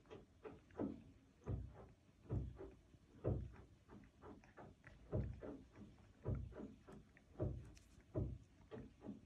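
Bengal cat licking close to the microphone: repeated wet strokes, a stronger one about every second with lighter ones in between.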